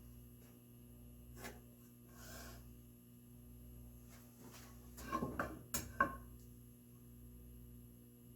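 Steady low hum, then about five seconds in a brief cluster of wooden knocks and scraping as the oak board and marking tools are handled, with the two sharpest knocks a little after the fifth second.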